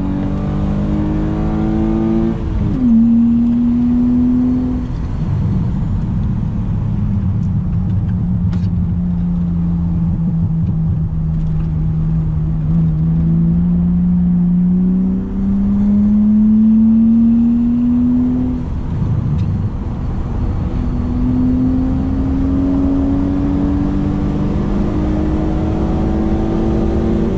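BMW E36 328i's M52B28 2.8-litre straight-six engine under load: the revs climb, drop sharply at an upshift a couple of seconds in, hold lower for a stretch, then climb again in two long pulls, with another upshift at the very end.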